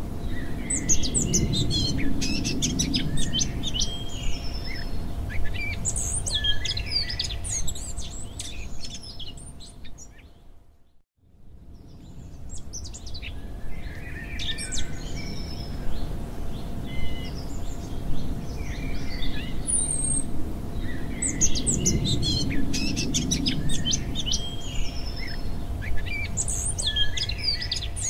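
Recorded chorus of songbirds chirping and twittering, many short high calls in overlapping clusters over a low background rumble. The sound fades out to silence about ten seconds in, then fades back up.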